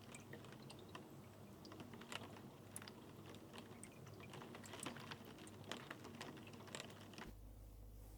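Faint, irregular light clicks and taps over a soft hiss, like small objects being handled. The clicks stop about seven seconds in, leaving a steady low hum.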